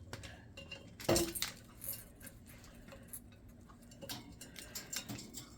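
Light scattered clicks and taps from a parrot's toy stand being handled, with one louder knock about a second in.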